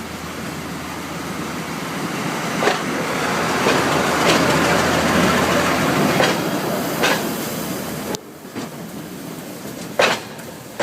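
Train passing close by: a rising rush of wheel and rail noise with sharp clicks from the rail joints, loudest in the middle. It drops away abruptly about eight seconds in, leaving a few single clicks.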